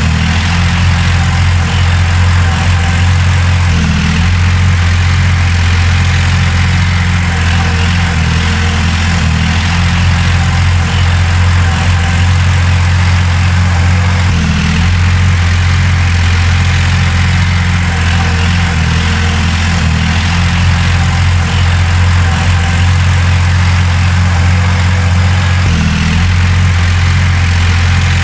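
Heavy diesel engine of earthmoving machinery running steadily with a low hum, without revving up or down.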